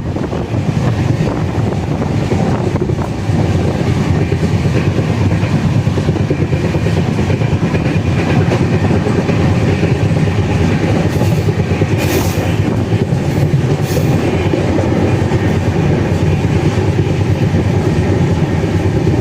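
Moving passenger train heard from on board: a steady loud rumble of wheels on the track, with a few brief hissy bursts about twelve to fourteen seconds in.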